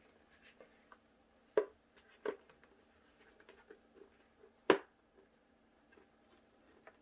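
Plastic replica helmet being handled and pulled on over the head: a few scattered knocks and rubs, the sharpest about five seconds in.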